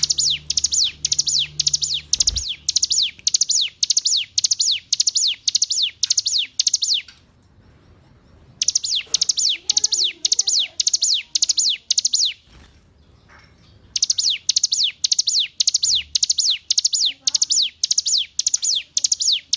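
Ciblek gunung (hill prinia) singing: long runs of sharp, high notes, each sweeping downward, repeated about three times a second in three phrases with short pauses between them. Fainter, lower wavering calls sound underneath in the second half.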